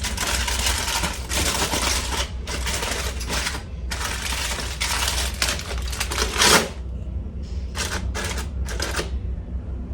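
Rapid clattering and rattling of the hot air fryer basket being handled, ending with a louder knock about six and a half seconds in, then a few separate clicks near the end, over a low steady hum.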